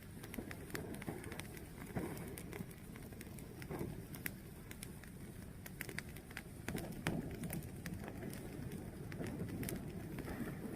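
A fire burning, with a steady low rush and frequent irregular sharp crackles and pops.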